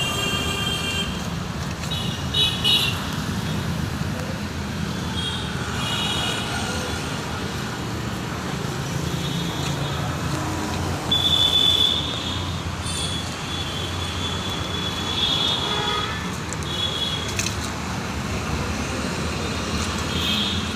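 John Deere tractor's diesel engine running steadily, with short high-pitched squeaks coming and going every few seconds.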